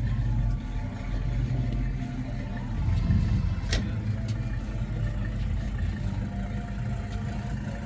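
A car engine running steadily with a low rumble, and a single sharp click about three and a half seconds in.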